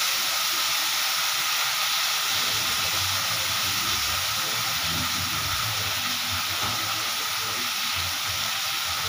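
Sambal chili paste frying in hot oil in a wok: a steady sizzle.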